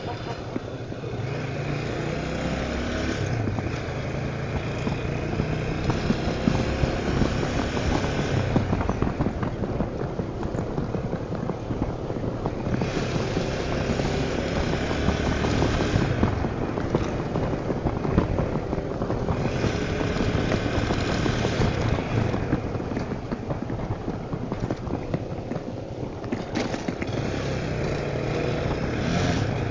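Tornado 250 motorcycle engine running while riding, its note rising and falling, with road and wind noise that swells and fades every few seconds.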